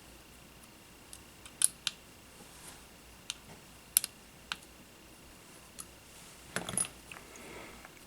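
Small tools and parts being handled on a workbench: scattered sharp clicks and taps, then a short, denser clatter near the end. A faint steady high whine sits underneath.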